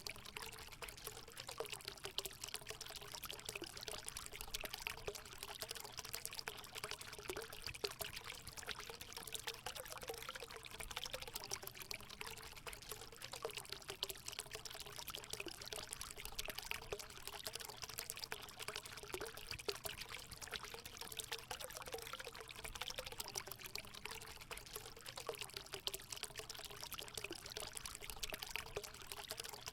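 Natural water pouring steadily into a hot spring pool, a continuous splashing trickle with a wavering gurgle.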